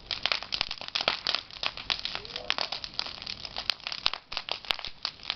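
Large bonfire of cleared brush and vegetation burning, with a dense, rapid stream of sharp crackles and pops.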